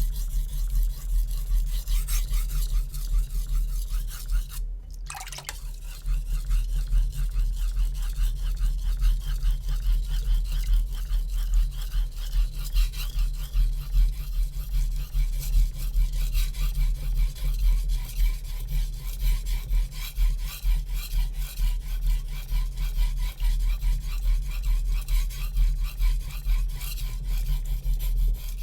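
A HAP40 steel knife edge pushed and pulled over a Naniwa Super Stone whetstone in quick, even back-and-forth strokes, a steady rasping scrape. There is a short pause about five seconds in.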